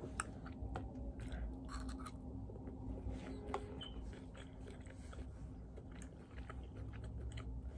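A person chewing food with the mouth close to the microphone: a string of faint, irregular wet mouth clicks.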